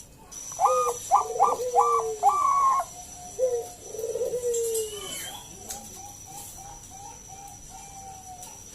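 Zebra dove (Bangkok perkutut) cooing: a phrase of four quick high notes over a lower falling note, then two shorter cooing notes a few seconds in. Fainter short notes repeat evenly afterwards.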